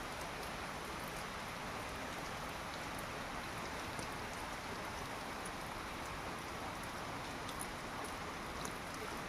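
Steady rain falling in forest, an even hiss with scattered individual drop ticks, a few of them more distinct near the end.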